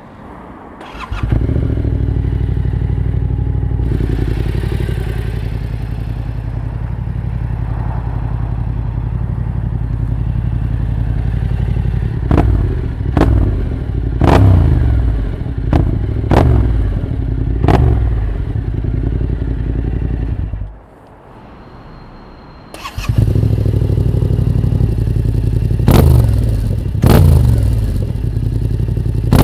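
Motorcycle fitted with an aftermarket full exhaust system starting up about a second in and idling, then revved in a run of short throttle blips. The engine sound drops away for about two seconds, then returns idling with more sharp blips near the end.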